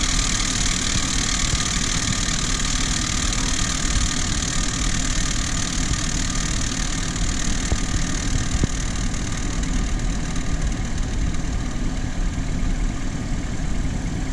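Renault Kaptur 1.6 petrol engine idling from a cold start with a loud noise from the right side of the engine, which the owner calls knocking. He cannot tell whether it comes from an idler roller, the pump, the tensioner or the timing chain. It lasts only until the engine warms up, and the high part of the noise eases toward the end.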